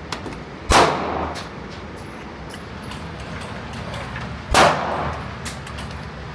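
Two gunshots about four seconds apart, each a sharp crack followed by a short echoing tail.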